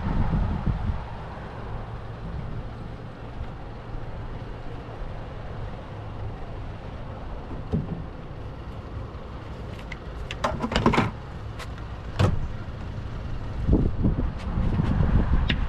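Wind buffeting the microphone in gusts, with a quick cluster of knocks and rattles about ten seconds in and one more knock a second later, as a crab trap is hauled up against the boat.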